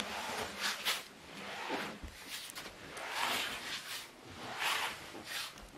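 Soft rustling and rubbing in several swells of about a second each, with a few light ticks.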